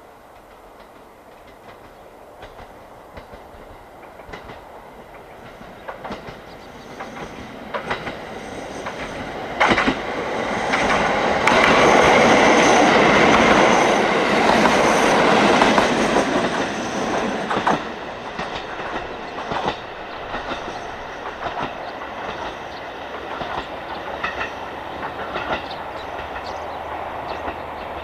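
Diesel train passing on the line, growing louder as it nears and loudest for a few seconds in the middle, with wheels clicking over rail joints. After it passes, the clacking of the cars goes on steadily at a lower level.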